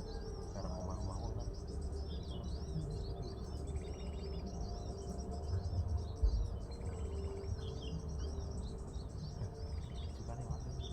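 Small birds chirping continuously in quick series of short, arched high notes, with an insect buzzing briefly twice, over a low outdoor rumble and a single low thump a little past the middle.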